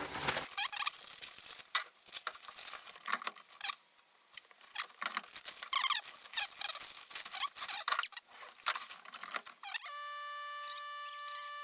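Crinkling and rustling of plastic wrapping as a duck is packed for freezing, in short irregular bursts. Near the end a steady pitched hum starts suddenly and holds level.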